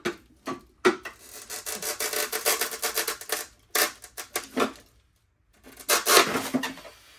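An oven-warmed headlight lens being pried away from its housing. The softened sealant and plastic creak and rasp in a run of rough, crackly strokes, with a brief pause about five seconds in before a final loud stretch.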